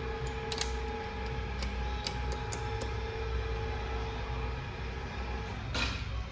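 Light metallic clicks and taps of transmission parts being handled, several in the first three seconds, over a steady electrical hum. A short scraping rasp comes near the end.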